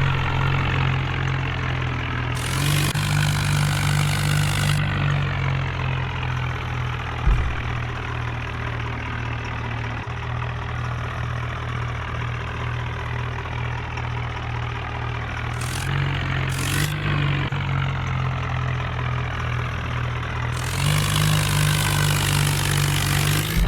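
Tractor's diesel engine running steadily at idle, revved up several times with louder, brighter bursts near the start, in the middle and near the end. A single short thump about seven seconds in.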